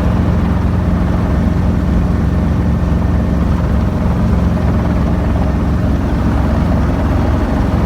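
Small helicopter's engine and rotor running steadily with a constant low, rapidly pulsing drone.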